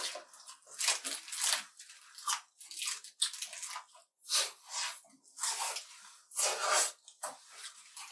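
Close-miked eating of a breaded fried chicken burger and french fries: irregular crunchy bites and chewing, one burst after another.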